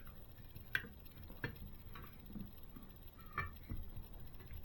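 A few small, irregular clicks and taps of scale-model parts being handled, as the rear wheel spindle is pushed through the swingarm and rear wheel.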